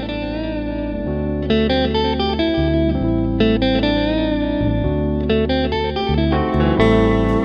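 Live band music with no singing: an electric guitar plays a melody with wavering, vibrato notes over a bass line that moves every second or so.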